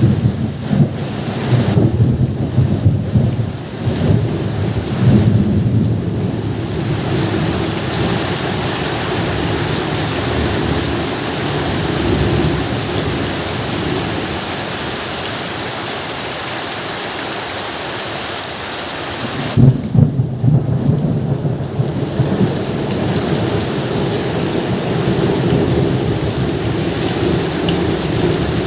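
Steady heavy rainfall with thunder: deep rolling rumbles during the first several seconds and again about twenty seconds in, over the constant hiss of the rain.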